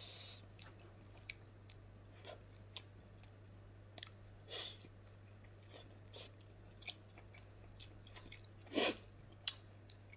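Close-miked chewing of a mouthful of meat and rice, with scattered wet clicks and lip smacks and one louder smack near the end, over a faint steady low hum.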